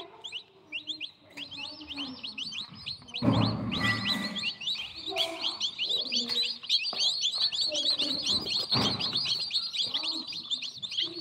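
A brood of newly hatched birds peeping constantly: many quick, high chirps, each falling in pitch. Some rustling knocks cut in about three seconds in and again near nine seconds.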